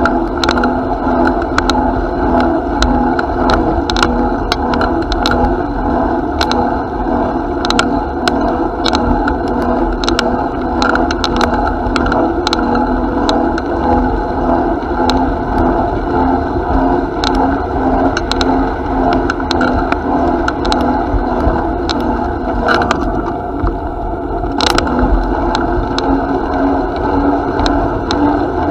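Steady riding noise from a moving bicycle: a continuous rumble of tyres and wind, with frequent small clicks and rattles.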